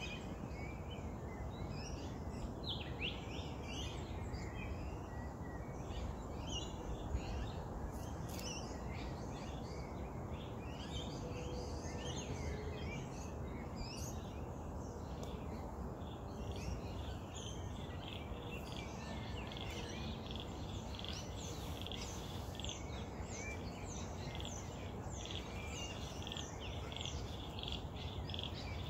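Bush birds chirping and calling with many short, overlapping calls, over a steady low background rumble. From about two-thirds in, a continuous fast high trill joins in.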